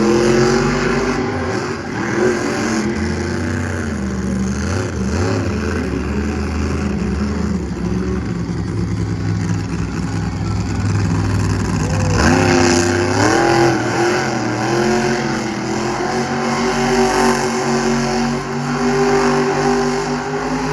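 Monster truck engine running hard at high revs. The pitch climbs sharply as the throttle opens near the start, and again about twelve seconds in.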